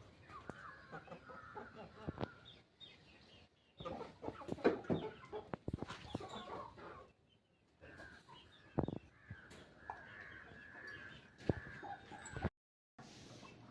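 Domestic hens clucking softly, with scattered short calls and a few drawn-out calls, broken by brief silent gaps.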